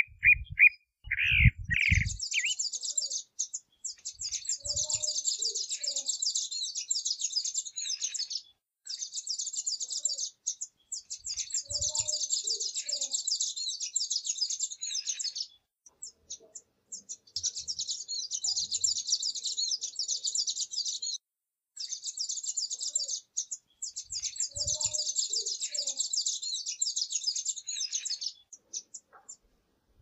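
Burnished-buff tanager singing long bouts of high, rapid twittering, each several seconds long with short breaks between. During the first two seconds, before the twittering begins, a lower, clearer phrase of a chalk-browed mockingbird is heard, with a few low thumps.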